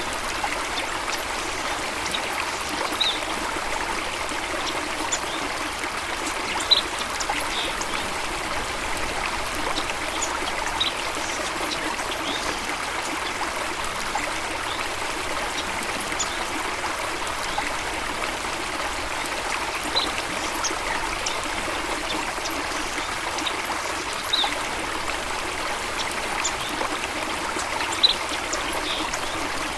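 Running water of a stream or small waterfall, a steady rushing flow, with short high-pitched notes scattered through it every second or two.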